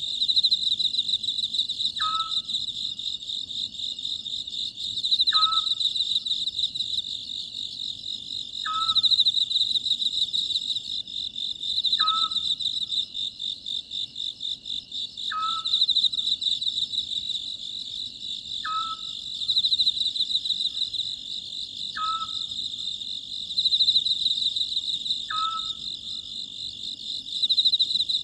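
Oriental scops owl calling, one short note repeated evenly about every three seconds, eight times, over a steady, dense chirring of crickets.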